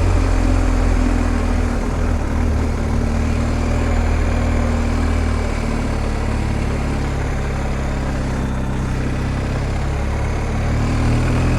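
BMW R1250 GS Adventure's boxer-twin engine running steadily while riding, mixed with rushing wind and road noise; the engine note shifts a little about halfway through.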